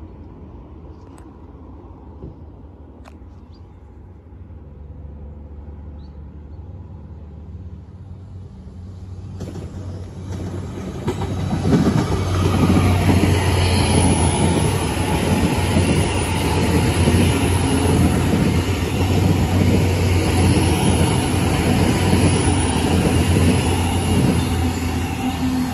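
Great Western Railway Class 802 bi-mode intercity train passing through on diesel power. It builds over the first ten seconds or so, then a loud rush of wheels on rail and underfloor engines runs for about fourteen seconds as the carriages go by, easing off right at the end as it moves away.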